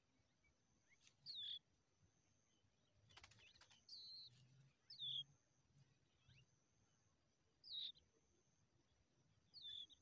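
Faint bird chirps: five short chirps, each sliding down in pitch, spread out with pauses between them. A brief crackling rustle comes about three seconds in, over a thin steady high tone.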